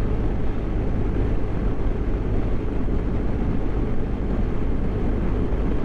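Steady wind rush and road noise while riding a BMW GS motorcycle at speed, mostly low-pitched buffeting on the helmet microphone with the engine running underneath.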